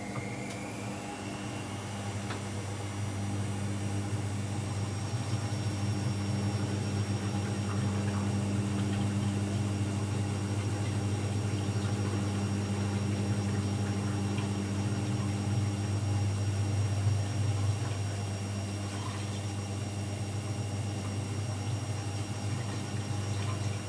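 AEG Lavamat L74810 front-loading washing machine spinning. Its motor whine rises in pitch during the first few seconds as the drum speeds up, then holds steady over a constant low hum.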